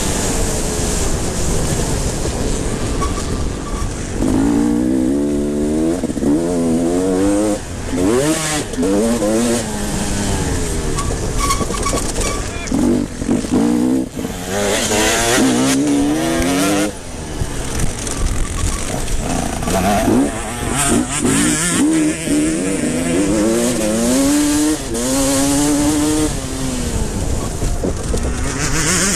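Motocross motorcycles racing, their engines revving up through the gears again and again, each climb in pitch cut by a drop at the shift, with several bikes heard at once.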